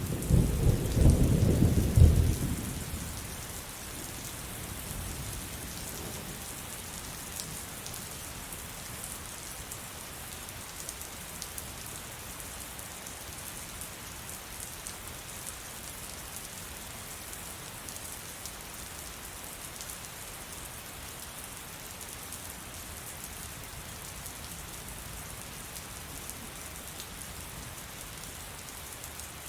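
Thunder rolls loudly for about the first three seconds, then fades into steady heavy rain, a constant hiss with the patter of drops.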